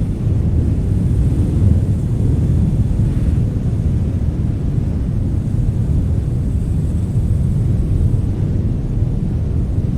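Hurricane-force wind buffeting the microphone: a loud, steady, low rumble without pause.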